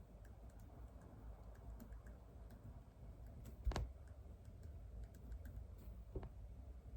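Sparse key presses on a computer keyboard: a few faint scattered clicks, with one sharper click a little past halfway and another near the end, over a low room hum.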